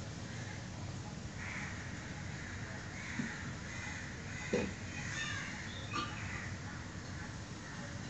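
Harsh, raspy bird calls repeated every second or so, over a steady low background rumble, with two sharp knocks about four and a half and six seconds in.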